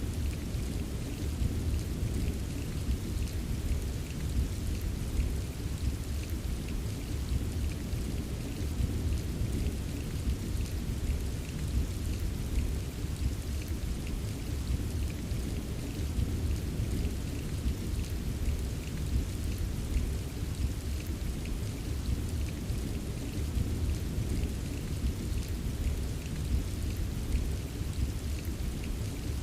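Steady rain with scattered drops tapping, over a constant deep low rumble of distant thunder.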